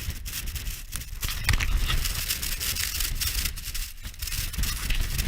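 Strong wind buffeting a thin tent: the fabric flaps and crackles irregularly over a low wind rumble on the microphone.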